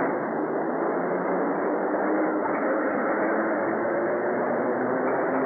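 Elevated subway train running along steel elevated tracks: a steady, even train noise with faint steady humming tones.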